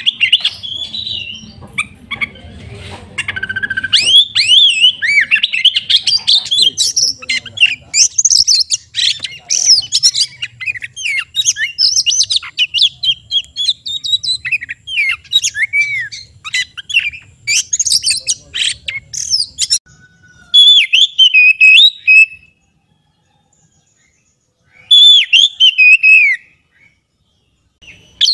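Oriental magpie-robin singing a loud, varied song of rapid whistles, trills and chattering notes, breaking off twice near the end.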